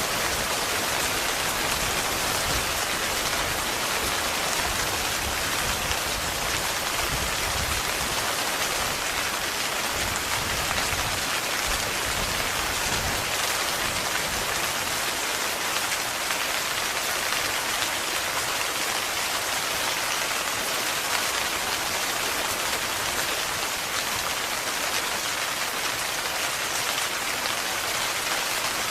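Steady heavy rain falling on a tent's fabric, a dense, even patter with no break.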